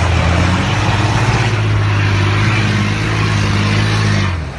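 A rally vehicle's engine running loud and hard, with a steady low drone and a rushing noise over it. The sound drops away abruptly near the end.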